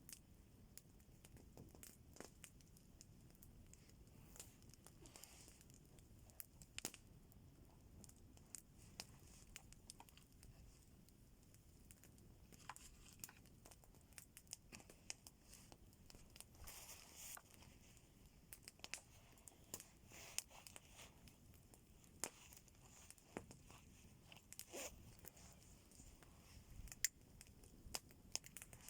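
Campfire crackling quietly, with scattered sharp snaps and pops at irregular intervals and a few brief rustles.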